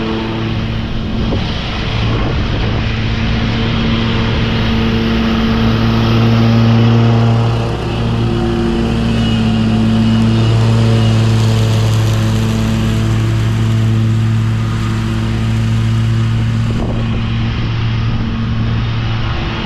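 Commercial mower engine running steadily under load while mulching leaves, its pitch wavering only slightly.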